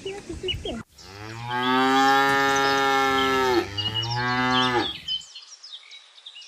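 A cow mooing: one long moo of about two and a half seconds, then a shorter one straight after, with small birds chirping behind. Just before, there is a brief bit of hens clucking that ends at a cut.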